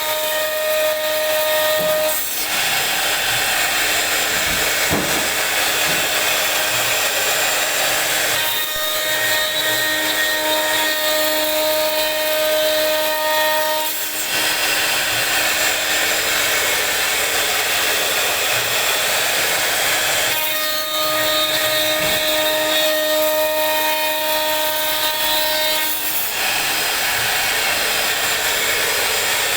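CNC router spindle cutting into wood: a steady, loud hiss of cutting throughout. A whine over it comes and goes in three stretches of about five seconds each, at the start, about nine seconds in and about twenty-one seconds in.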